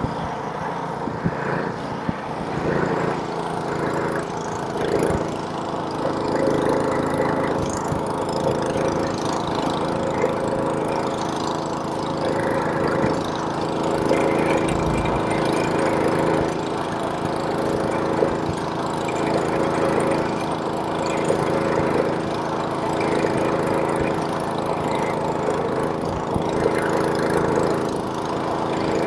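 Snowblower's small engine running steadily while clearing snow, with a hiss over the engine note and small rises and falls in loudness.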